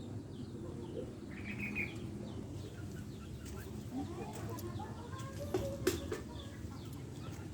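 Birds chirping repeatedly in short calls, with a few sharp clicks about five and a half to six seconds in, over a steady low background rumble.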